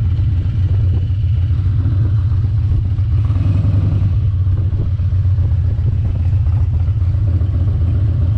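Harley-Davidson Dyna Super Glide's V-twin engine running steadily, a loud, even low rumble.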